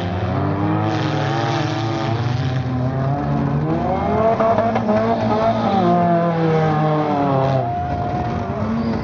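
Four-cylinder demolition derby cars' engines revving hard, several at once, their pitch rising and falling over a few seconds at a time.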